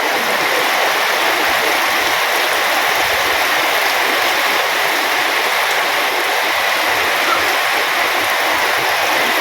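A steady, even rushing noise at constant loudness, cutting off abruptly near the end.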